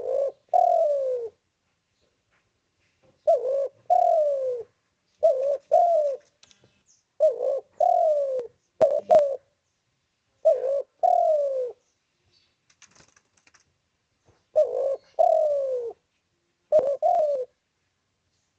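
Spotted dove cooing repeatedly in its typical phrases: each a short coo followed by a longer falling coo, the phrases repeated every second or two with pauses between groups. A couple of faint sharp clicks come in between.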